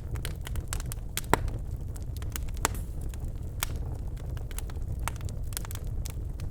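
Birch logs burning in a fireplace, crackling with frequent sharp pops and snaps over a low steady rumble of the flames; the loudest pop comes about a second and a half in.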